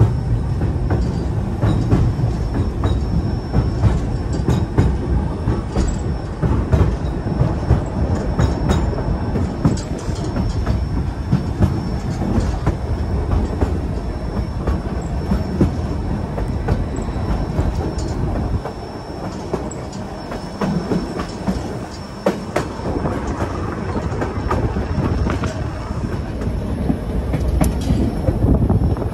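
White Pass & Yukon Route narrow-gauge passenger train rolling along the track, heard from aboard: a steady rumble with wheel clicks over the rail joints and occasional wheel squeal. It eases for a few seconds a little past the middle.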